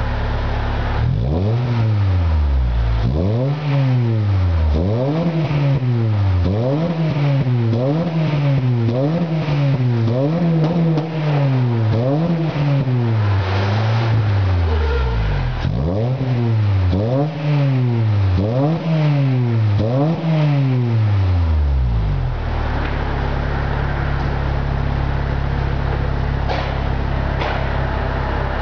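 Honda Fit (GD1) 1.3-litre four-cylinder engine breathing through a BRAVE aftermarket muffler, idling and then blipped over and over, the exhaust note rising and falling about every one and a half seconds with a brief pause halfway. Near the end it settles back to a steady idle.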